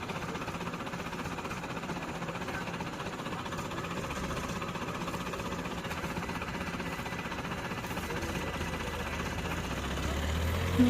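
A vehicle engine running steadily, with a low rumble growing in the last couple of seconds.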